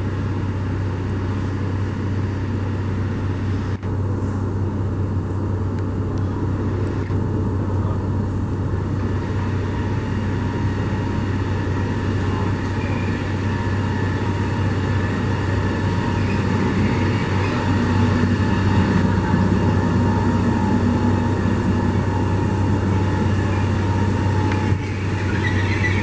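A train running with a steady low hum and rumble, growing slightly louder around the middle.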